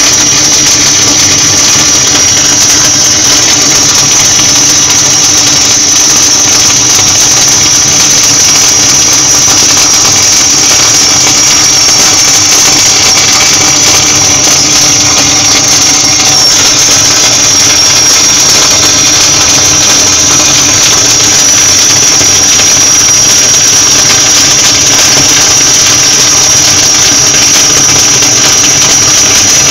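Gas-shielded flux-cored arc welding: a continuous arc crackle and hiss with a steady high-pitched whine, unbroken as one long bead is laid.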